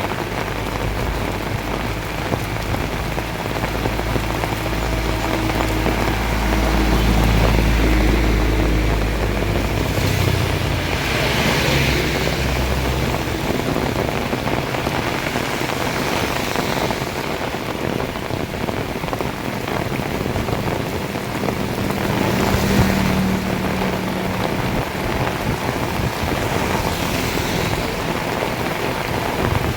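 Heavy rain pouring steadily, with a low rumble through roughly the first ten seconds and brief surges in the downpour's hiss.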